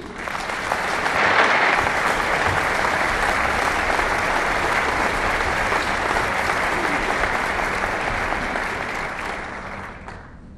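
Audience applauding in a hall, swelling in the first second, holding steady, and dying away near the end.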